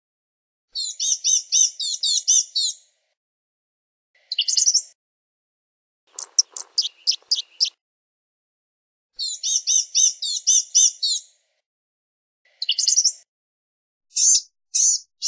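Blue-gray gnatcatcher singing: phrases of thin, high-pitched notes in quick series, several times over with short pauses between.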